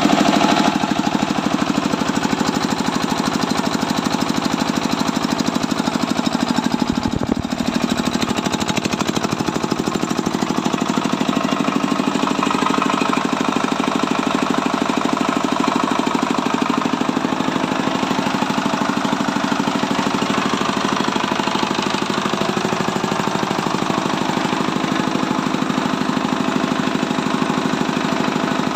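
Bharat single-cylinder diesel stationary engine running steadily with a fast, even knock, driving an Ostad No. 8 rice polisher.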